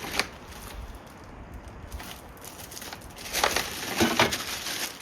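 Handling noise from bike-rack parts and packaging: a sharp knock just after the start, then a cluster of knocks and rustles in the last second and a half.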